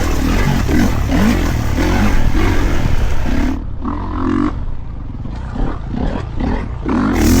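Kawasaki KX450 dirt bike's 450cc four-stroke single-cylinder engine revving on and off the throttle while riding trail. A little past halfway the rider rolls off and the engine note drops and quietens, then picks back up near the end.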